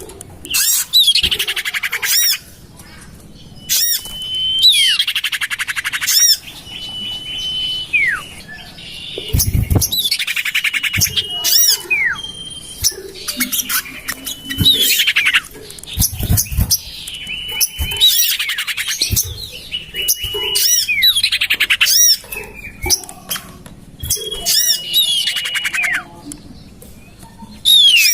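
Common iora (cipoh or sirtu) calls from a bird-lure recording: harsh, buzzy scolding notes that fall in pitch, with short level whistles and quick high chips, repeated over and over every second or two.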